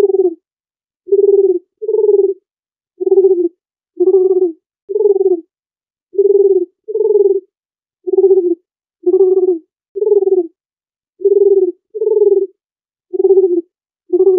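Dove cooing: a series of about fifteen short, low coos, roughly one a second and often in pairs.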